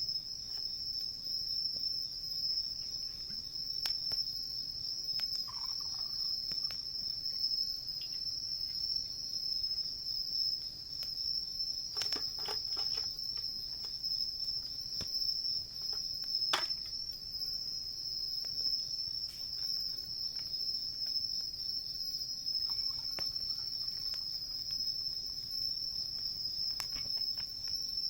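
Crickets chirping in a steady high-pitched trill, with a few sharp crackles and pops from a wood campfire, the clearest around the middle.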